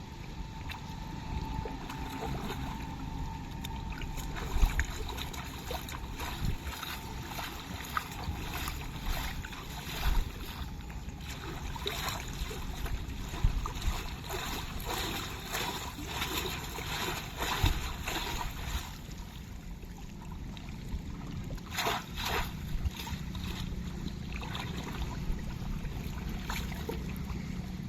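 Water sloshing and splashing irregularly, with scattered short splashes and knocks, as makhana (fox nut) is worked out of a pond.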